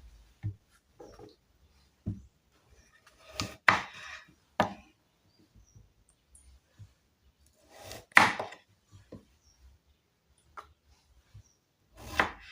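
Knife cutting peeled potatoes into pieces on a chopping board: irregular knocks of the blade meeting the board, a second or several apart.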